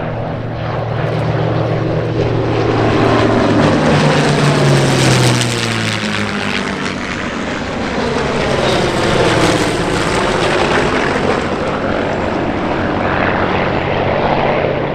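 F4U Corsair's Pratt & Whitney R-2800 18-cylinder radial engine on a low flypast. The engine note builds to a peak about five seconds in, then drops in pitch as the plane passes and goes away.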